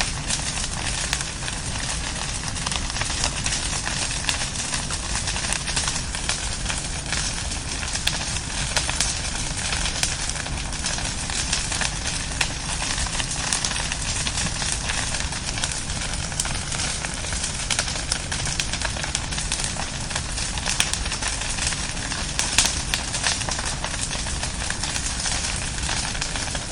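Bonfire burning, its logs crackling and popping continually over a steady low rumble of the flames.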